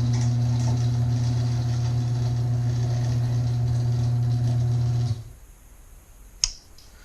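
LiftMaster 1160 garage door opener, its stripped internal gear replaced, running with a steady hum as it drives the door down. It stops abruptly about five seconds in, at its set down travel limit, and a single sharp click follows about a second later.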